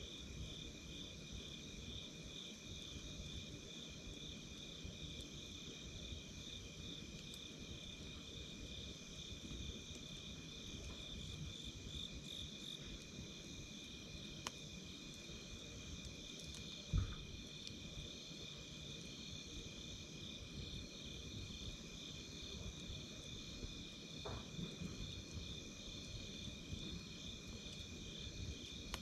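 Night insects singing in a continuous, rapidly pulsing high trill over a campfire burning with a low rustling hiss. There are a few sharp crackles and pops from the burning wood, the loudest about halfway through.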